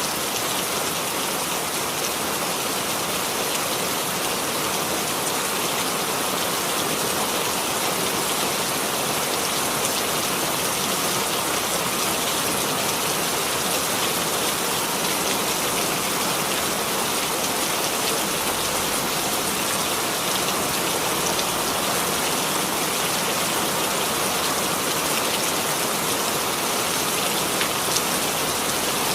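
Steady rainfall: an even, dense hiss of rain on a surface with scattered drops ticking through it.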